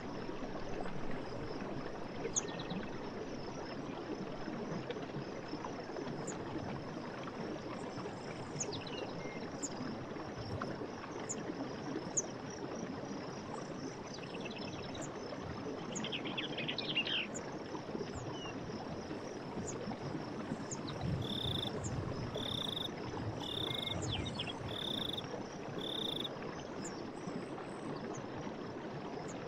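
Night forest ambience: a steady rushing hiss under a constant high insect drone, with scattered faint chirps. Near the end comes a run of five short, identical calls about a second apart.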